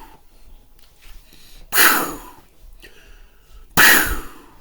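A man making an explosion-like burst with his mouth, twice, each a sharp blast of breath that dies away within about half a second, imitating a gunshot-like effect.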